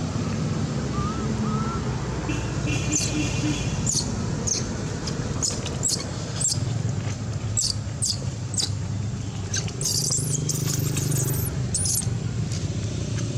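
Steady low rumble of engine and traffic noise, with many short, very high-pitched squeaks over it, about one every half second to second, and a quick cluster of wavering high squeals near the end.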